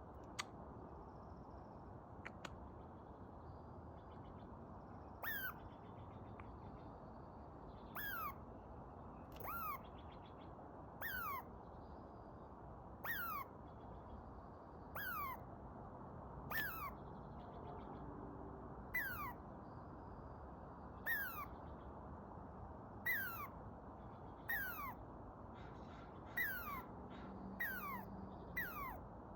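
A squirrel calling from a tree: a series of about fourteen short calls, each dropping quickly in pitch, repeated every second and a half to two seconds. There is a sharp click in the first second.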